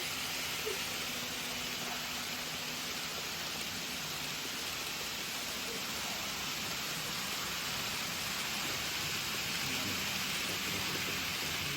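N gauge model train running along the layout track: a steady rushing rattle of small wheels on rail, with a faint low motor hum.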